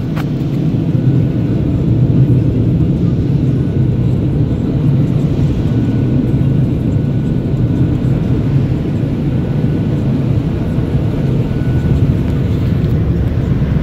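Automatic car wash machinery running steadily, heard from inside the pickup's closed cab: a constant, loud, low rushing noise.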